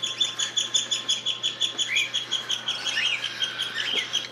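Baby cockatiels chirping: one chick gives a fast, even run of short high chirps, about eight a second, the rhythmic food-begging call of a hand-fed chick, with a few single rising calls from other chicks about two and three seconds in.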